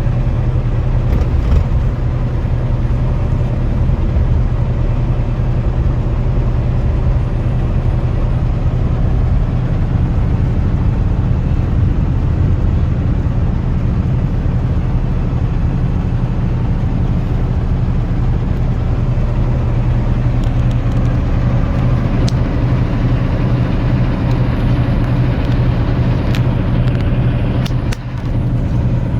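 Semi truck driving at road speed: a steady low diesel engine drone with road noise.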